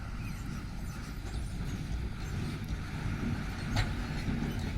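Heavy diesel machinery running steadily with a low rumble, with one sharp metallic knock a little under four seconds in.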